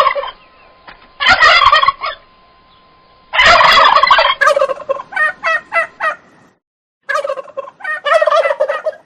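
Turkey gobbling several times in a row. Each gobble is a fast run of short, warbling notes.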